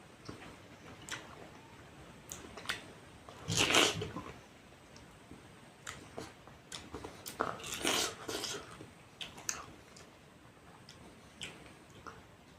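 Close-miked eating of juicy pineapple: bites and wet chewing with scattered sharp clicks, and two louder stretches of chewing about four seconds in and around eight seconds.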